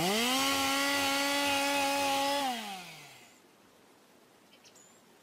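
Cartoon power-saw sound effect for a beaver chewing through wood: a buzzing motor tone that spins up quickly, runs steady for about two seconds, then winds down in pitch and fades out.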